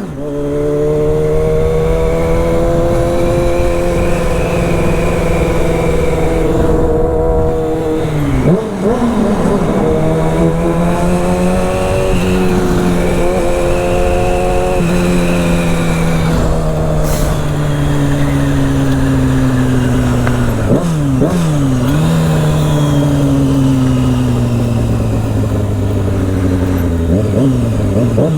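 Motorcycle engine under way, revs climbing through the gears and dropping sharply at the gear changes a few times, with a steady rush of wind.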